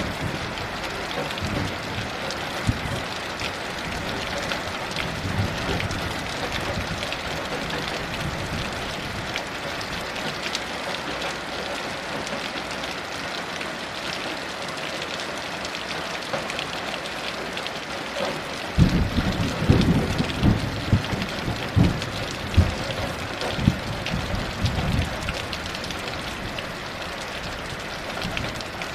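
Heavy rain falling steadily. About two-thirds of the way in, thunder breaks suddenly and rolls for about six seconds with several loud cracks, the loudest sound in the clip.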